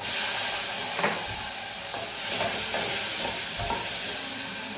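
Chopped onion frying in hot oil in a pan: a loud, steady sizzle that starts abruptly, with a few light scrapes of a spoon stirring.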